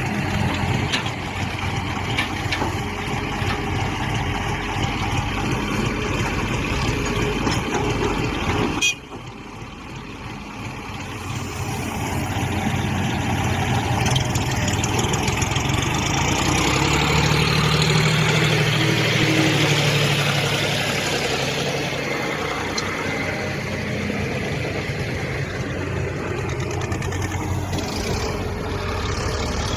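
Diesel tractor engine running steadily, cut off abruptly about nine seconds in, then swelling louder through the middle before settling again.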